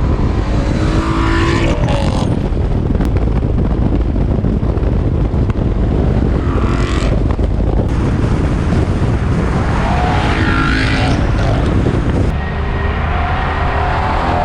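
Ford Mustang GT's 5.0 V8 running through an aftermarket cat-back exhaust, loud and deep, its pitch rising and falling several times as it is revved or driven.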